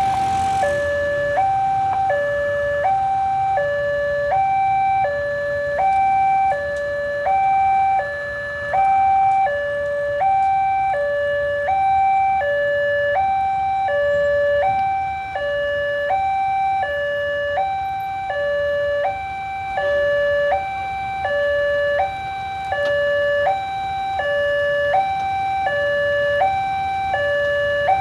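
Railway level-crossing warning alarm: an electronic two-tone signal switching evenly between a higher and a lower tone, about one high-low cycle every second and a half. It warns that a train is approaching the crossing.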